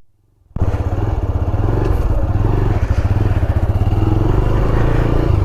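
Motorcycle engine running steadily under way, with an even, rapid pulse of the engine firing. It cuts in about half a second in after a moment of silence.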